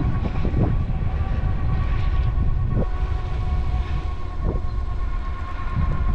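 Bird electric bike riding under motor power: the motor gives a steady high whine over a heavy rumble of wind on the microphone, with a few short thumps from bumps.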